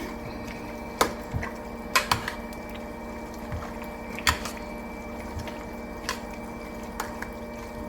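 Sauce simmering in a pan, with a few scattered soft pops and clicks over a steady appliance hum.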